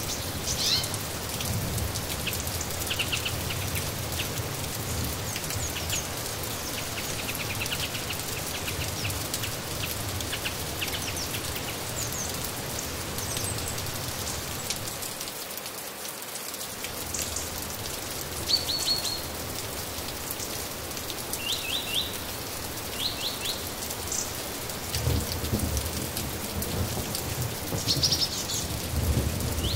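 Steady rain falling, with short high bird chirps scattered through it, often in quick runs of several notes, and a low rumble underneath that drops away briefly about halfway and returns near the end.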